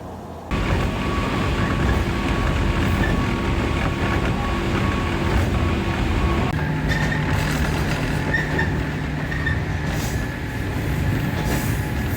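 A train running on the rails: a steady rumble of wheels on track with faint held squealing tones. It comes in suddenly about half a second in and shifts in pitch about halfway through.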